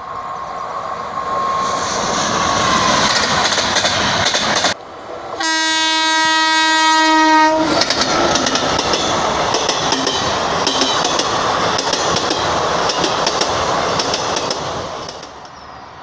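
Indian Railways train running on the track, with steady rolling wheel and rail noise. After a brief dip about five seconds in, the train's horn sounds one steady blast of about two seconds; the rolling noise then carries on and fades near the end.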